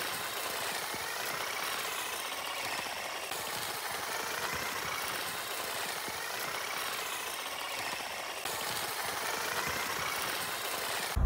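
A small motor running steadily, its pitch rising and falling every second or so.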